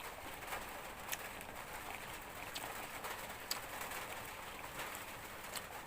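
Steady rain hiss with scattered sharp drip ticks.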